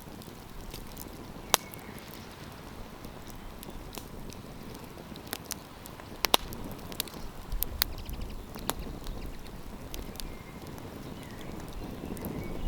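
Wood campfire crackling, with irregular sharp pops and snaps over a steady hiss, and a low rumble rising in the second half.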